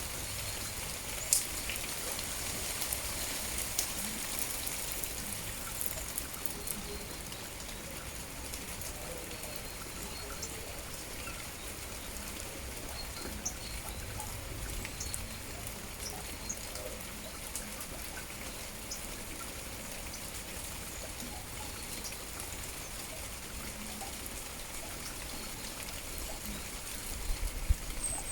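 Steady rain falling, with individual drops ticking close by and a few faint bird chirps.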